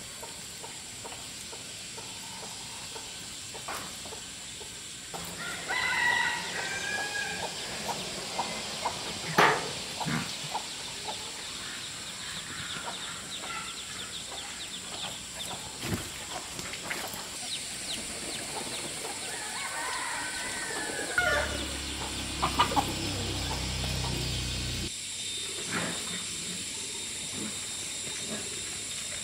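Chickens clucking and a rooster crowing in short bouts, with a few sharp knocks.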